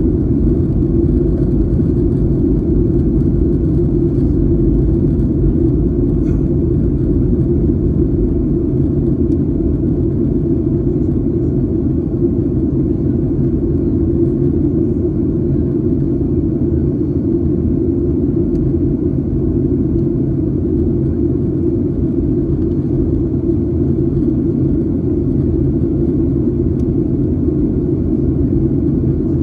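Steady jet airliner cabin noise: a loud, even low rumble of engines and airflow that does not change.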